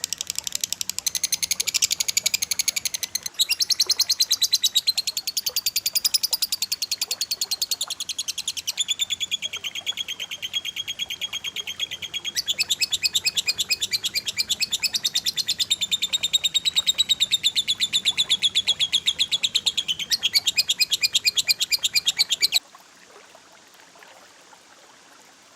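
Cililin and lovebird calls in very rapid, sharp trills, phrase after phrase shifting in pitch, cutting off abruptly a few seconds before the end to faint hiss.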